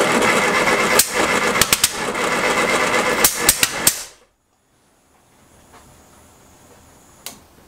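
Classic Mini four-cylinder A-series engine with an Arden eight-port head being cranked on the starter for about four seconds, with several sharp pops, without catching; the owner puts the failure to start down to the ignition timing. The cranking stops suddenly, and a single click follows near the end.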